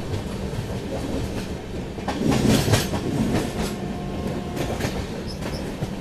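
Moving train: steady rumble of wheels on rails with quick clacks over rail joints, loudest and busiest about two to three seconds in, as another express train passes on the adjacent track.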